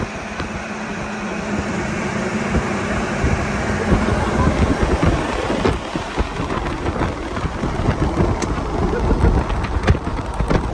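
A vehicle on the move: a loud, rough rumble with wind buffeting that grows a little louder, and a few sharp knocks and rattles near the end.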